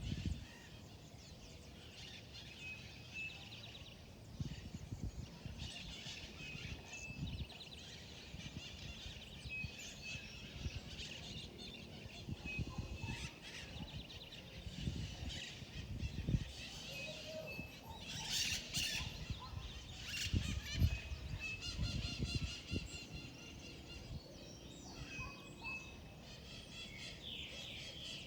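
Many wild birds chirping and calling at once: short high notes repeated over and over, with rapid trills near the end, over a low irregular rumble.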